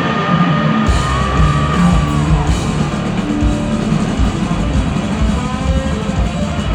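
Rock band playing live: the full band with drums crashes in about a second in, under a long held high note that bends and falls away after a couple of seconds.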